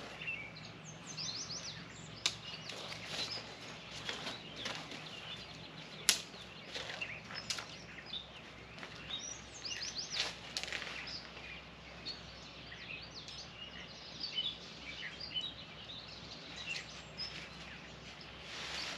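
Several birds chirping and calling over a low steady background hum, with a few sharp clicks or knocks, the loudest about six seconds in.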